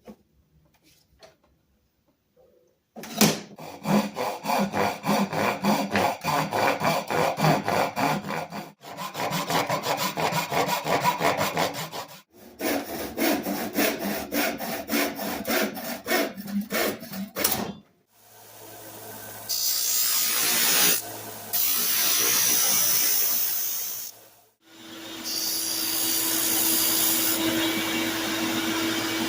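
Quick back-and-forth hand strokes working wood, in three runs with short pauses. Then a small power tool runs steadily in two long stretches, the second with a steady hum.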